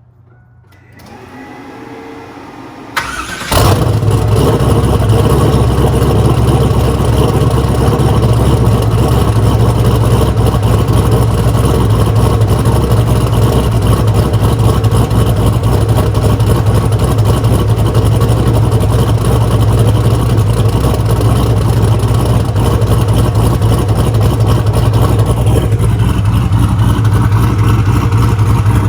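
Turbocharged Camaro engine on E85 cold-starting: about a second of cranking, a click, then it catches about three and a half seconds in and runs at a loud, steady idle.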